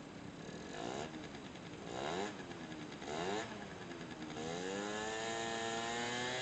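Honda Gyro X scooter engine running, revved in three short blips about a second apart, then brought up to higher revs and held there from about four seconds in.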